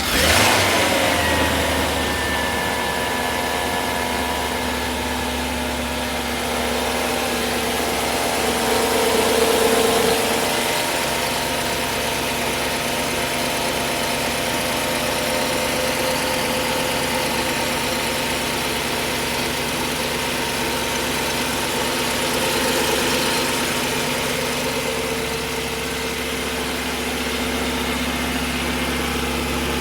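1998 Audi A8 engine idling just after a cold start. The revs fall from the start-up flare in the first couple of seconds, then it settles to a steady idle, swelling slightly about ten seconds in.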